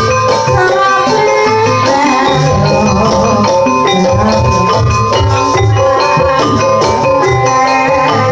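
Javanese jaranan music: struck metallophones ringing out melodic notes over a steady low drum beat and light percussion.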